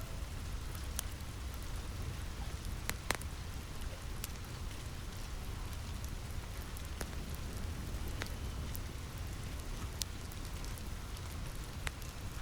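Steady rain pattering on a roof, with a low rumble beneath and a few sharp crackling pops from a wood fire scattered through it.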